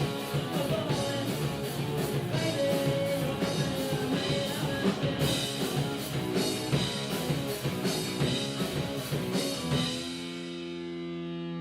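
Rock music with electric guitar and drum kit. About ten seconds in the drums stop and a guitar chord is left ringing.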